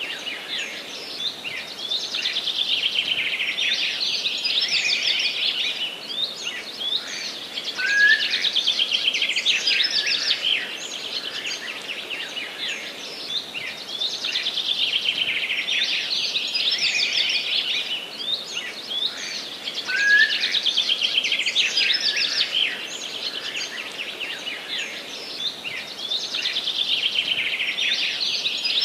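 Forest songbirds singing together: dense, overlapping high trills and warbles that swell and ease in waves every few seconds, over a faint steady outdoor hiss.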